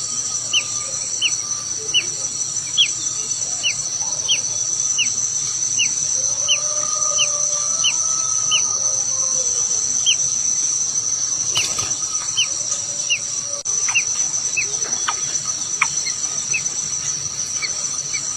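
A bird calling with short, sharp chirps, each dropping in pitch and repeated about every half second, over a steady high-pitched drone of insects such as cicadas or crickets. Fainter, lower bird calls come and go around the middle.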